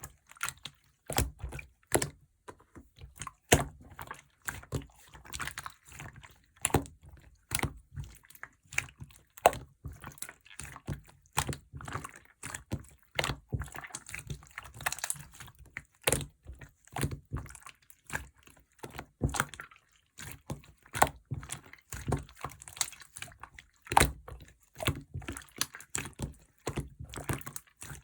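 Slime being squished, pressed and stretched by hand, giving irregular sticky, wet clicks and pops, a few a second.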